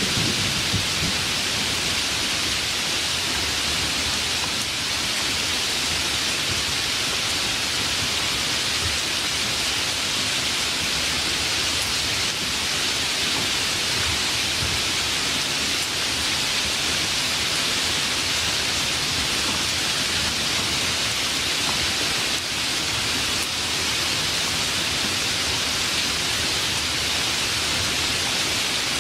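Steady heavy rain falling, an even hiss that keeps the same level throughout.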